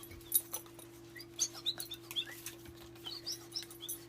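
A small shih tzu whining in many short, high chirping squeaks, with a few light clicks between them.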